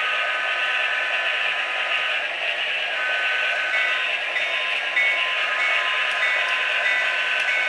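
HO scale model diesel locomotives running on a layout: a steady whirring hum from the running trains, with a few high steady tones and some higher tones coming and going from about four seconds in.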